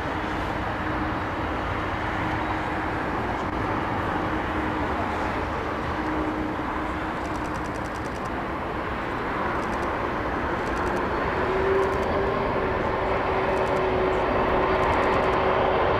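Jet airliner engines running with a steady rush and a faint whine, growing slightly louder in the second half.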